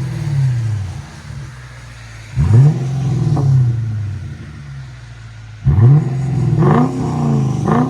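2012 Lexus LS 460's 4.6-litre V8 revved twice, each a sharp jump in pitch that falls back to a low idle, through a muffler-delete exhaust with Dynomax race bullet resonators. The sound is deep.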